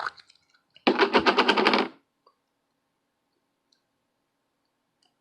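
A fast mechanical rattle of about a dozen sharp clicks in quick succession, lasting about a second.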